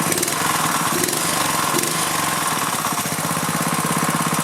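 Go-kart's small four-stroke engine running steadily with an even, rapid beat.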